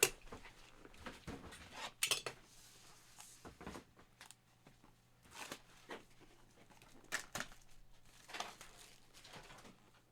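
Trading-card mini boxes and packs being handled: scattered taps, clicks and rustles of cardboard and wrappers, the sharpest tap at the very start, over a faint steady low hum.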